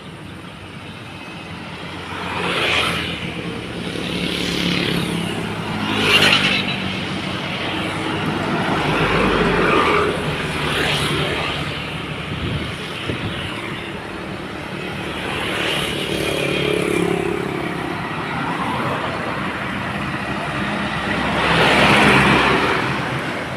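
Heavy trucks and other road vehicles passing one after another on a wet road: a low engine drone under hiss that swells and fades with each of several passes, the loudest pass near the end.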